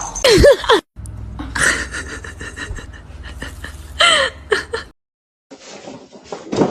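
Cat meowing: a few short calls that slide down in pitch, near the start and again about four seconds in. They are broken off by sudden cuts.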